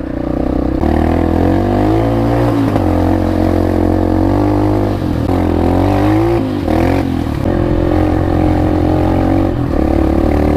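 Motorcycle engine running while riding down a steep road, its pitch dipping and rising a few times as the throttle changes.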